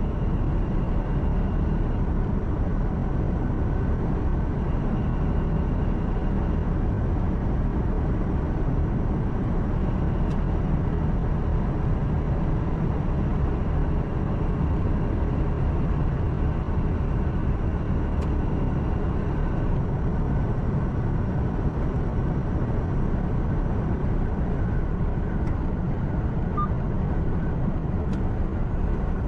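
Steady, even drone of a truck's engine and tyre and road noise, heard from inside the cab while driving.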